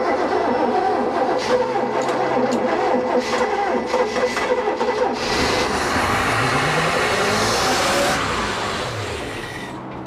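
Chevy 350 5.7-litre V8 boat engine, sitting unused for years, cranking on the starter, then catching about five seconds in and revving up with a rising pitch because the throttle has been opened by hand too far, before dying away near the end.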